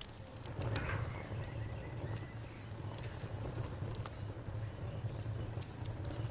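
Wood fire crackling, with scattered sharp pops over a low steady rumble, and a cricket chirping steadily at about four chirps a second.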